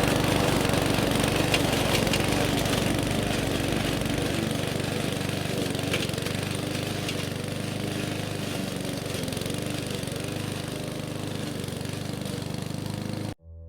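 Small petrol engine running steadily at speed, as on grass-cutting equipment, cutting off abruptly near the end.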